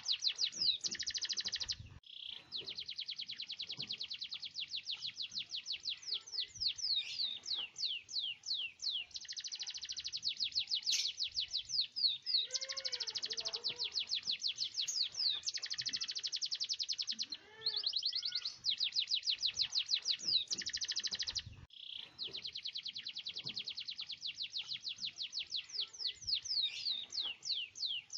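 Domestic canary in full song, singing long rolling trills of rapidly repeated high notes, some sliding in pitch, with only a couple of short breaks.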